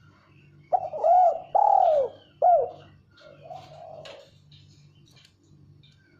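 Female spotted dove cooing: a loud phrase of about four short coos, each rising and falling in pitch, followed a second later by a softer, lower coo.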